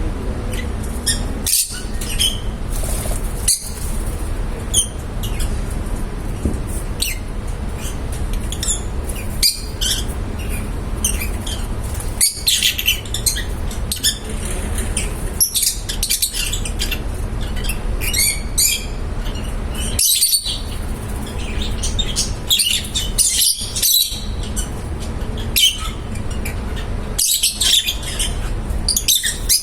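Pet lovebirds chirping and chattering, with many short high calls tumbling over one another, over a steady low background hum.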